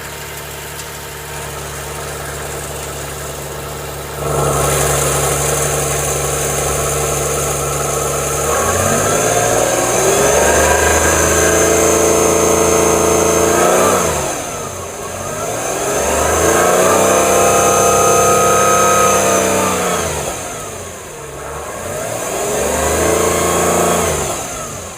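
Subaru Tribeca's 3.0-litre flat-six engine idling, then revved up slowly and held three times, each time dropping back. The engine has a cylinder 1 misfire and a front catalytic converter melted down inside.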